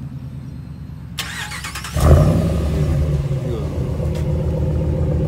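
A 2018 Ram pickup with its muffler deleted, started up. A cranking hiss comes in about a second in, the engine catches with a sudden loud burst about two seconds in, then settles into a steady, louder idle through the straight exhaust.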